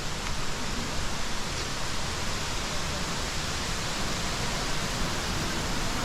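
Steady rush of running water from a mountain stream, an even hiss that does not change.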